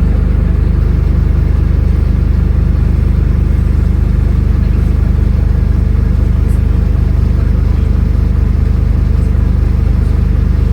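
Diesel engine of a Scania N310UA articulated city bus running at a steady, unchanging engine speed.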